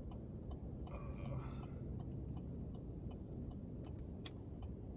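Low, steady rumble of a pickup truck's engine at low speed, heard from inside the cab while it pulls slowly into a tight spot, with a few faint irregular ticks.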